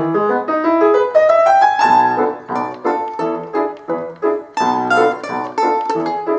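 A solo instrument playing a lively melody in separate, quickly fading notes, with a quick run of rising notes about a second in.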